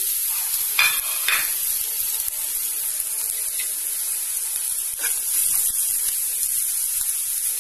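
Chopped onions, baby onions, ginger, garlic and green chillies sizzling steadily in hot oil in a frying pan, with two sharp knocks about a second in.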